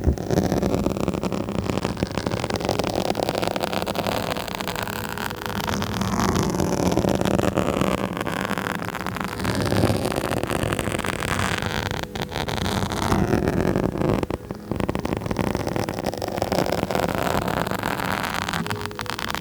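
Close scratching on a microphone: a dense, continuous scratchy rustle that briefly drops away twice about two-thirds of the way through.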